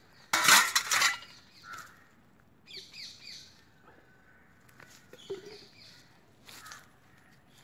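Birds calling: a loud, harsh burst about half a second in, then runs of quick, high chirps around three seconds and again around five seconds, and a short call near seven seconds.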